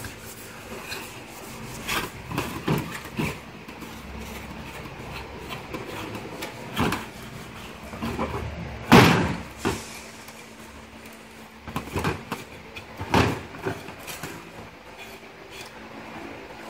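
Scattered knocks and clunks of metal motor parts being handled and set down during disassembly, the loudest about nine seconds in, over a faint steady hum.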